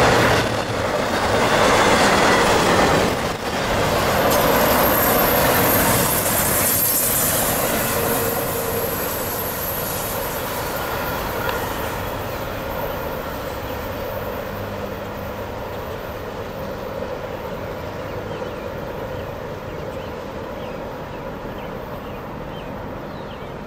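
Freight train rolling past on the rails, the noise of its cars and wheels fading steadily as it moves away, with a thin high squeal in the first several seconds.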